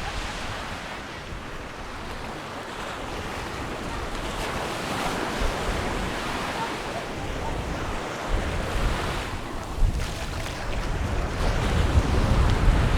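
Sea waves washing onto a sandy beach, with wind buffeting the microphone, the low rumble of the wind growing stronger in the second half.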